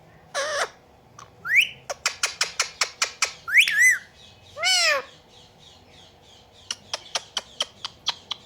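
Indian ringneck parakeet calling: a harsh squawk, rising whistles, a quick run of short sharp chirps about two seconds in, and a longer wavering call near the middle. Scattered short chirps follow near the end.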